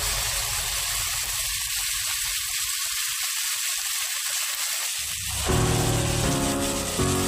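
Diced carrots and potatoes frying in a wok with a steady sizzling hiss.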